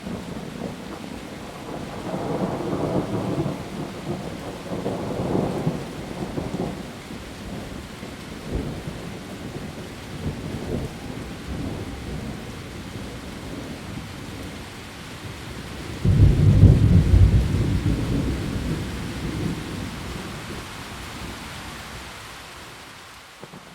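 Heavy rain falling steadily on leaves, with rolling thunder: low rumbles swell and fade early on, then a loud thunderclap breaks about two-thirds of the way through and rumbles away over several seconds.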